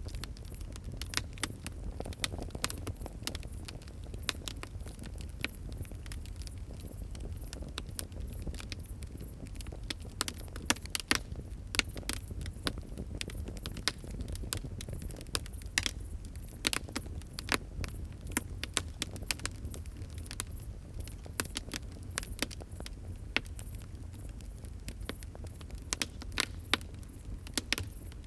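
Wood fire crackling and popping: irregular sharp snaps, some clustered in quick runs, over a steady low rush of burning.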